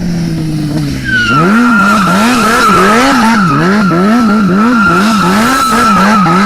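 Race car engine revving up and down about twice a second over a steady, high-pitched tyre squeal, the pattern of a car held sliding on the throttle. Just over a second in, the engine note stops falling and the squeal begins.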